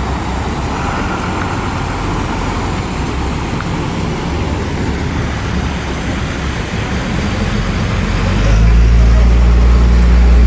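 Steady traffic noise, then a vehicle's engine comes up loud and low about eight and a half seconds in as it passes close.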